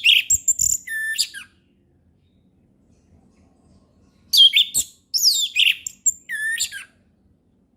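Orange-headed thrush singing. One phrase of clear, falling whistles and quick notes ends about a second and a half in. After a pause of nearly three seconds, a second, similar phrase follows.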